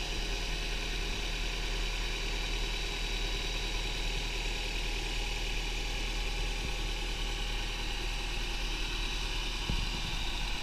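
2000 Honda Prelude's 2.2-litre four-cylinder VTEC engine, fitted with an Injen cold air intake, idling smoothly and steadily while warming up after a cold start. A brief click comes near the end.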